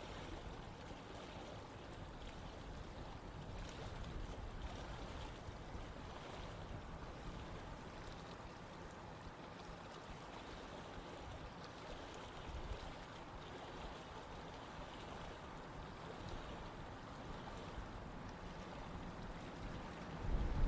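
Running stream water flowing steadily, with small splashes through it.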